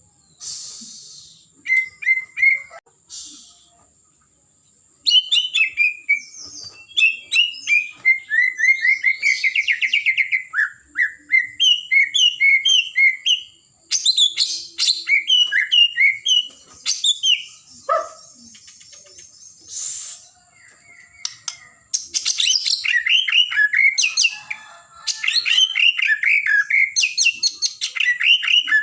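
White-rumped shama (murai batu) singing vigorously in varied phrases of repeated chirping notes, whistles and rapid trills, in bursts with short pauses between them. A faint steady high-pitched tone runs underneath.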